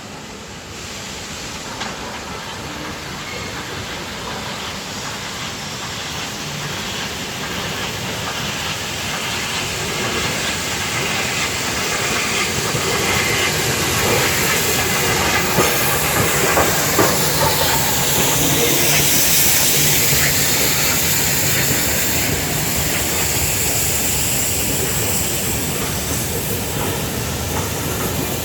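A vehicle's rushing noise with a strong hiss, building steadily over about fifteen seconds to a peak and then easing a little, as a vehicle coming up close.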